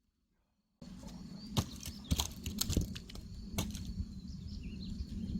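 Near silence, then, from about a second in, a steady low outdoor hum with a few sharp clicks and knocks scattered through it.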